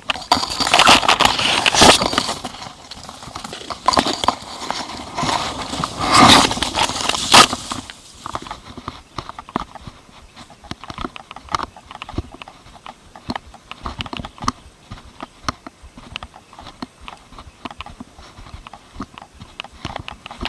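A hooked barramundi thrashing and splashing at the water's surface in loud bursts over the first eight seconds or so, then a long run of quieter rapid clicks and knocks.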